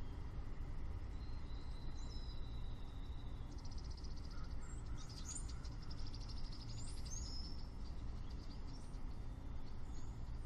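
Songbirds singing outdoors: a long thin whistle about a second in, then rapid trills and chirps through the middle, with more chirps near the end. A steady low rumble runs underneath.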